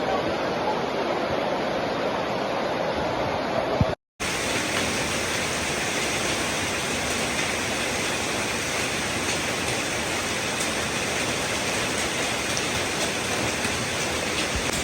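Heavy rain pouring down in a steady rushing hiss during a storm, broken by a brief dropout about four seconds in, after which the rain sounds brighter and fuller.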